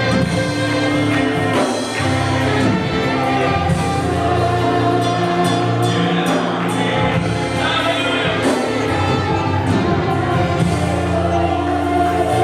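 Church worship music: voices singing together over a band, with sustained chords and a steady beat.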